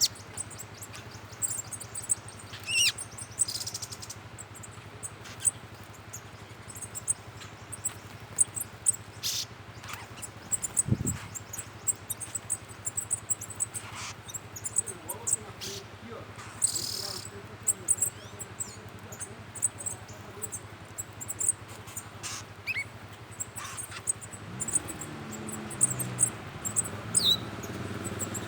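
Forest birds giving scattered short calls over steady, fast, high-pitched insect chirping, with a low steady hum underneath.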